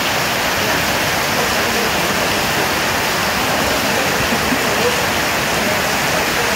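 Heavy rain pouring down, a steady dense hiss with no letup.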